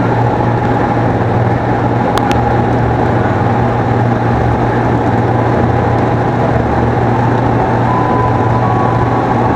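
KRL electric commuter train running by, a loud steady rumble with a steady whine over it that steps slightly higher near the end. There is one brief click about two seconds in.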